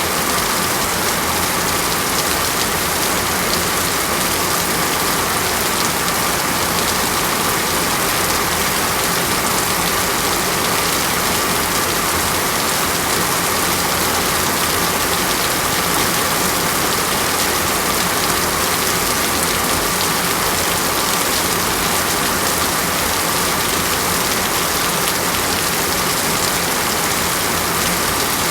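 Steady rain falling on a surface, an even hiss of many drops with fine pattering.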